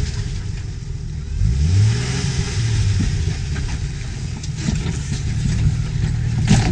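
Jeep engine working a slow rock crawl, revving up briefly about two seconds in, then running low and steady. From about halfway on come sharp knocks and crunches of tyres and underbody on rock, the loudest near the end.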